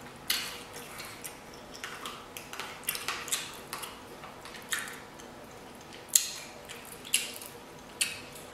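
Close-miked chewing and wet mouth sounds of someone eating, mixed with a fork clicking and scraping in a plastic takeout bowl, in short irregular bursts.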